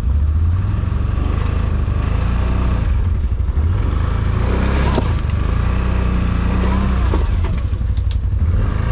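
ATV engine running under way, with a steady low rumble.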